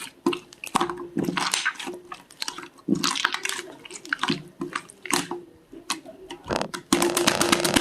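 Slime being squished and pressed by hand, making dense, irregular wet crackles and popping air bubbles.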